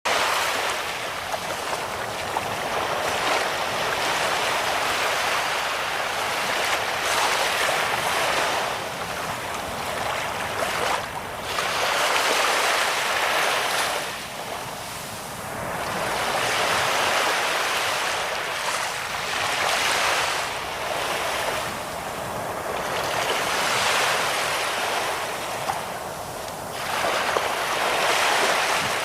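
Ocean waves washing ashore, a steady rush that swells and falls back every three to five seconds.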